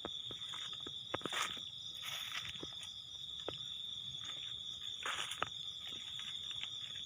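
Steady high-pitched insect trill, like crickets, with footsteps rustling and crunching through ground vegetation, a few louder steps about a second in and again about five seconds in.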